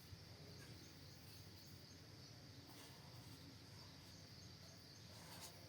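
Near silence: faint steady room tone with a thin, high, even whine.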